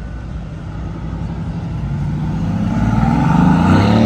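A car driving past with its engine running, growing louder and rising in pitch as it accelerates closer, loudest near the end.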